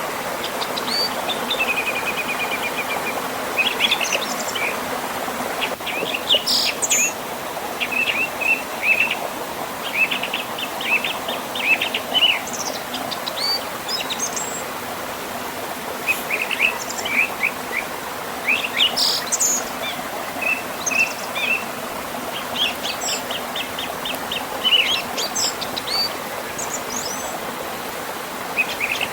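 Songbirds chirping and trilling in short, repeated phrases over the steady rush of a river flowing past a small waterfall.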